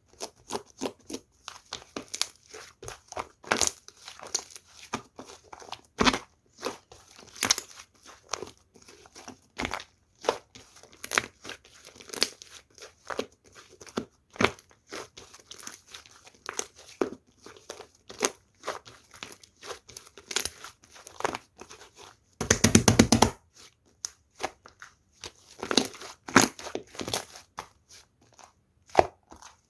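Hands squishing and stretching slime: an irregular stream of sticky pops and crackling clicks, with a dense burst of rapid pops about three-quarters of the way through.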